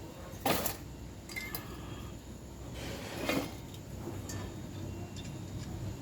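Two brief knocks, about three seconds apart, with a few faint clicks between them, over a steady low hum.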